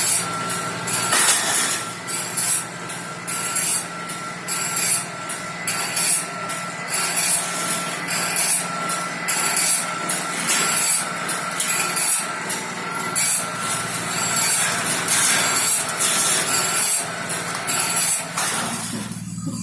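Steel band saw blade being cut, a rasping, rubbing sound in repeated uneven strokes over a steady machine hum. It stops shortly before the end.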